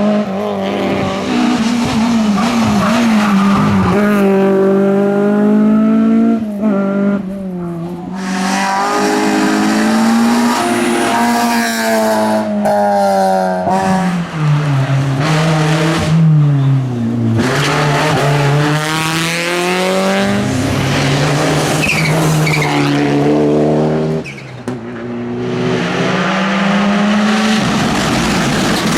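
Rally car engines at full competition pace, revving up and dropping in pitch again and again through gear changes and lifts for corners, with tyres squealing. The sound dips briefly a few times, around a quarter and again around four fifths of the way through.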